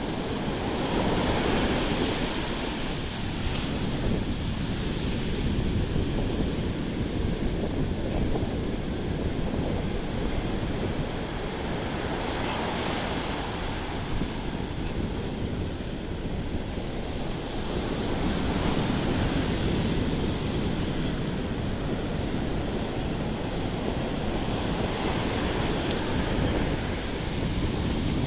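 Sea surf washing onto the beach, swelling and easing every several seconds, with wind rumbling on the microphone.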